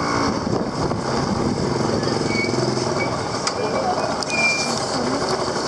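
Motorcycle engine running through a crowded street, with people's voices all around and a few brief high squeaks between about two and four and a half seconds in.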